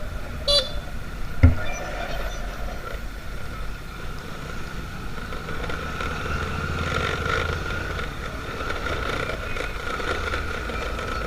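Motorcycle riding through slow traffic in a jam: engines running and road rumble, under a steady high whine. A short sharp high sound comes about half a second in, and a knock about a second later.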